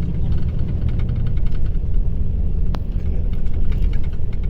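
Mercedes-Benz O-500RSD bus engine running with a steady low rumble, and a single faint click about two-thirds of the way through.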